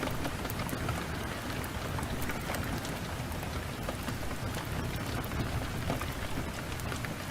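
Heavy rain pouring steadily, with a low rumble underneath and scattered faint crackles.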